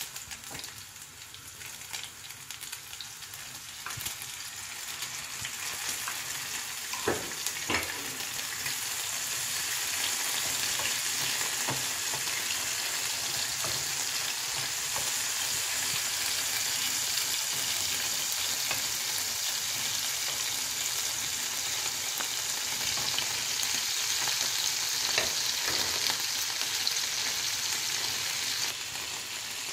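Diced sausage sizzling in hot oil in a non-stick frying pan, the sizzle growing louder about a third of the way in and then holding steady. A few short knocks of a wooden spatula against the pan as the food is stirred.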